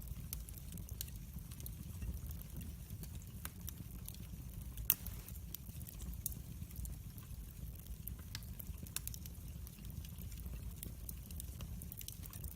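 Wood fire in a fireplace burning with a soft low rumble and irregular crackles and pops, the sharpest pop about five seconds in.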